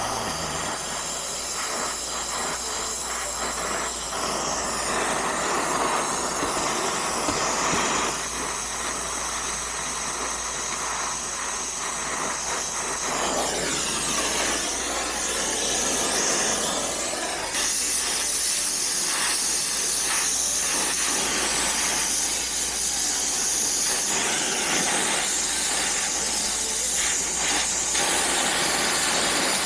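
Brazing torch hissing steadily as the copper line-set joints are brazed.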